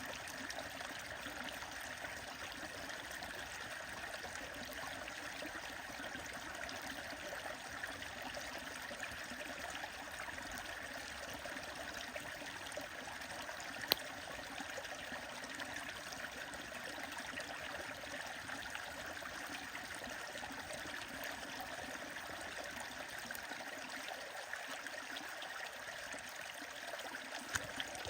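Stream water running steadily, with faint scattered crackles from a wood bonfire and one sharp pop about halfway through.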